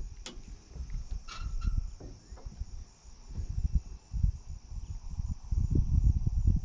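Wind gusting on the microphone as uneven low rumbling, over a steady high insect drone. A couple of brief chirps sound about a second and a half in.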